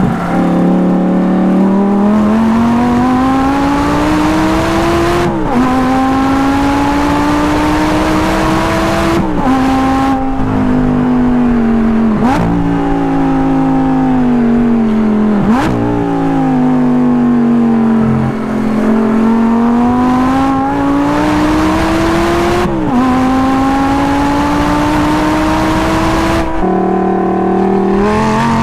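2010 Audi R8's 5.2-litre V10 running through a custom valved exhaust, pulling through the gears of its manual gearbox: the engine note climbs steadily and drops sharply at each shift, several times over, easing off once near the middle before climbing again. Two brief sharp cracks come through midway.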